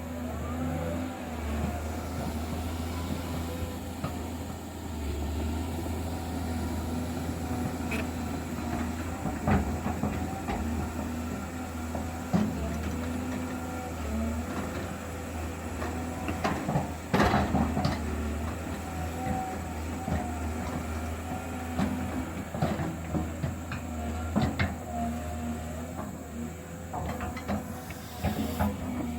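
Diesel engine of a heavy earthmoving machine running steadily under load, with sharp metal clanks every few seconds from its working parts.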